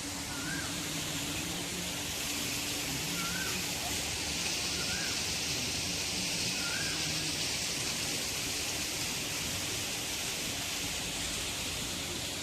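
Steady outdoor hiss, swelling for most of the middle of the stretch, with a short high chirp every second or two through its first half.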